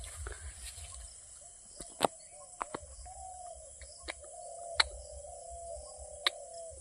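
Birds calling over a steady high-pitched drone, broken by about six sharp clicks, the loudest about two seconds in and again near five seconds.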